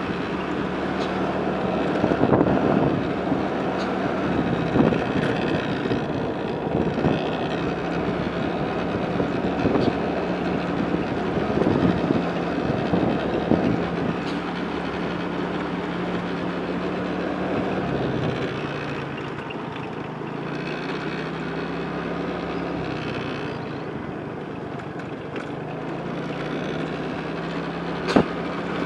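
A road vehicle's engine running at a steady pitch under road noise, with occasional knocks. About two-thirds of the way through the engine note drops and wavers, and a single sharp knock comes near the end.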